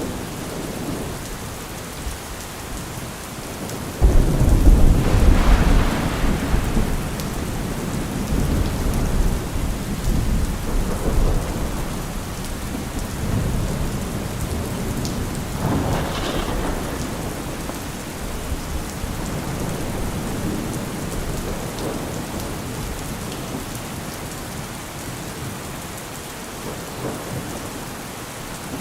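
Steady rain falling through a thunderstorm. A loud thunderclap breaks about four seconds in and rumbles on for several seconds, and a smaller roll of thunder follows about halfway through.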